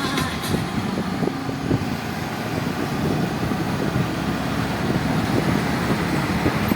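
Steady road traffic noise with heavy vehicle engines running.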